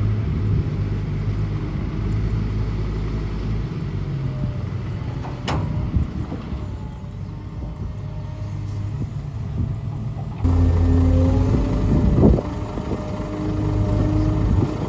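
Heavy diesel construction machinery running: a steady low engine drone with a couple of sharp knocks. About ten seconds in it turns abruptly louder.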